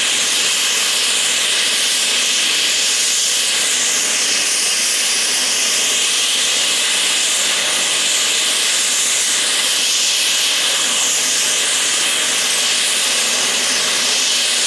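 Helicopter running close by: a loud, steady hissing rush of turbine and rotor wash, with no distinct blade beat.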